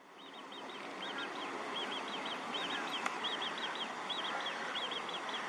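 A small songbird singing a quick phrase of three or four high notes, repeated over and over about every three-quarters of a second, over a steady outdoor hiss that fades in at the start.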